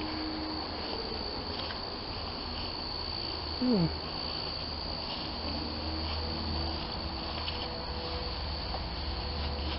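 Steady high-pitched chirring of insects, with a low rumble underneath. About four seconds in, a short sound slides down in pitch.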